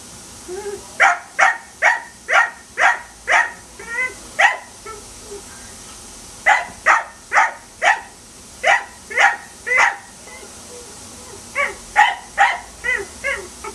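Dachshund barking in three runs of quick sharp barks, about two a second, with short pauses between the runs.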